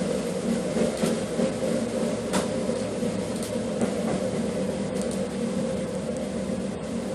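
Steady running noise inside a train car: a constant low hum with a few faint clicks, easing slightly toward the end.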